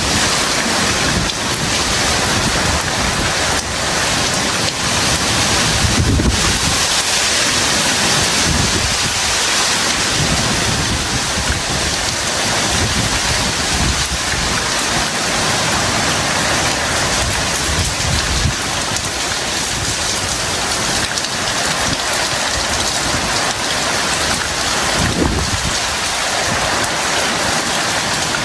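Heavy tropical rain pouring down in a steady, dense hiss, with low rumbles swelling now and then.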